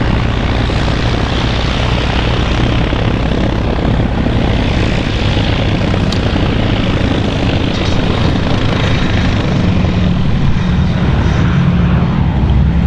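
Boeing B-17 Flying Fortress in flight, its four Wright Cyclone nine-cylinder radial engines and propellers droning loudly and steadily.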